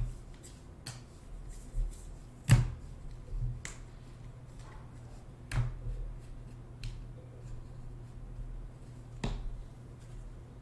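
Trading cards and packs being handled on a table: scattered sharp clicks and taps, the loudest about two and a half seconds in, over a steady low hum.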